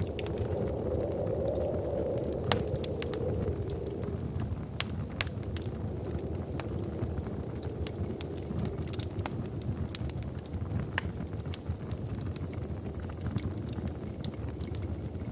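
Wood fire in a fireplace crackling, with irregular sharp pops and snaps over a steady low rumble of the flames; a soft hiss sits under it for the first few seconds.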